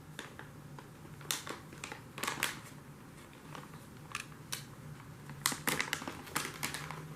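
A cat chewing crunchy dry treats: sharp crunches in two bouts, about a second in and again near six seconds.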